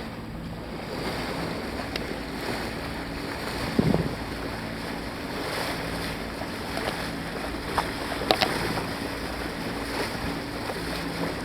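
Wind buffeting the microphone and water rushing past the hull of a sailboat under way, over a faint steady low hum. A few short knocks or splashes come through, the loudest about four seconds in and two more near eight seconds.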